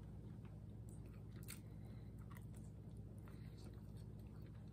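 Faint chewing of a mouthful of duck leg, with a few soft mouth clicks and smacks, over a steady low hum.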